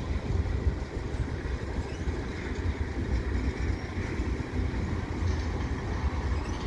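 CN mixed freight train, its tank cars and boxcars rolling past: a steady low rumble of wheels on the rails.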